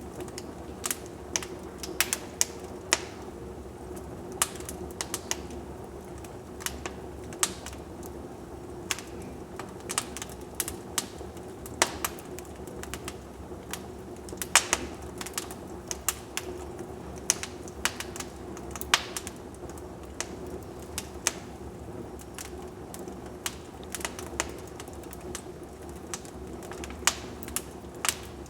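Wood fire crackling in a fireplace: sharp, irregular pops and snaps at a few per second, over a steady low hum.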